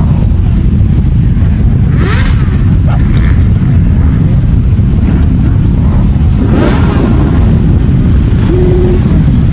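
Motorcycles riding past, two of them rising and falling in pitch as they go by about two seconds in and again past the six-second mark, over heavy wind rumble on the microphone. Near the end an engine holds a steady note, then drops in pitch.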